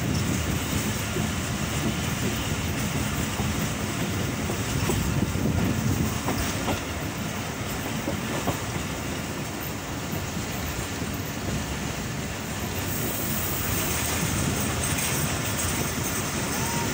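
Passenger train running along the track, heard from inside a carriage: a steady rumble of wheels on the rails, with a few faint clicks from the wheels over the track.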